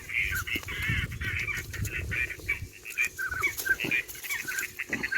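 Waterfowl calling: many short, pitched calls one after another, several a second, over a low rumble.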